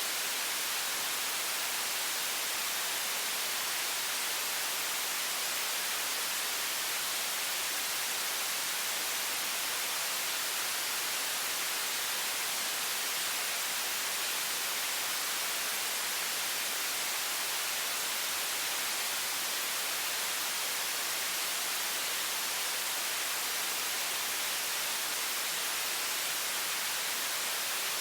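High-pressure stream of water from a faucet, a steady even hiss weighted toward the high end that does not change.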